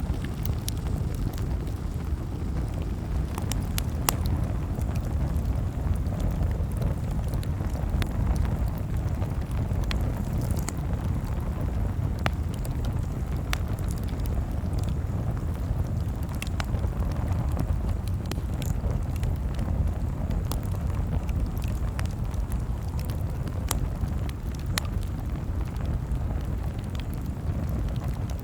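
Campfire crackling: irregular sharp pops and snaps, a few seconds apart, over a steady low rumble.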